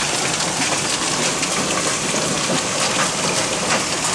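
Heavy rain mixed with hail pelting down: a dense, steady hiss dotted with many small sharp hits.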